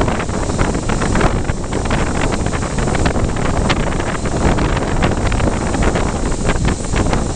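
Moving train heard with its doors open: a steady rumble and rush of air buffeting the microphone, with frequent irregular clicks and rattles.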